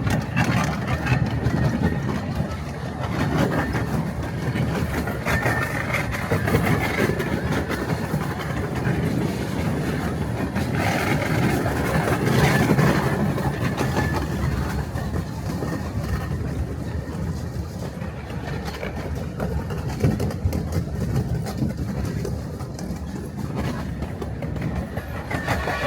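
Redwood Valley Railway miniature train running along the track, with a continuous rumble of wheels on rail.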